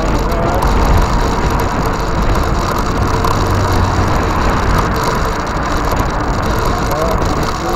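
E-bike on the move: rapid, continuous ratcheting clicks from the rear freewheel, over a steady low wind rumble on the microphone.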